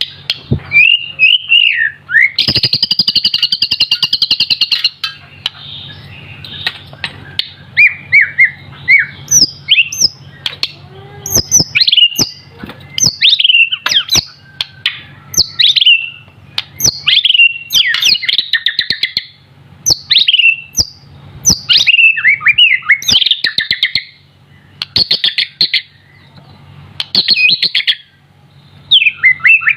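Young white-rumped shama (murai batu) singing: a run of varied whistled phrases with quick rising and falling notes, a harsh buzzing rattle about two seconds in, and sharp clicks between phrases.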